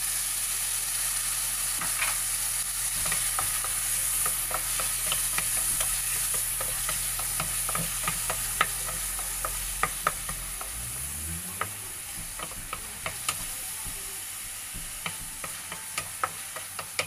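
Chopped tomatoes sizzling in hot oil with browned garlic and onion in a wok, stirred with a wooden spatula that knocks against the pan in frequent sharp taps. The sizzle eases a little as the tomatoes settle into the pan.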